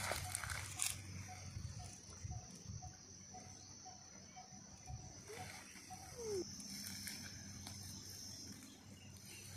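Faint outdoor birdsong and insects: a bird repeats a short single note about two or three times a second, another call falls in pitch around the middle, over a steady high insect drone.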